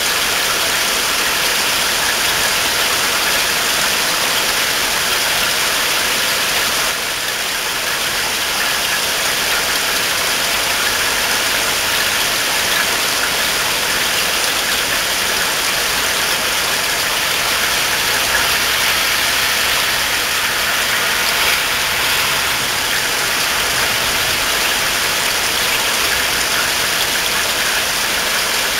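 Steady rain falling on trees and the ground, an even hiss that holds throughout.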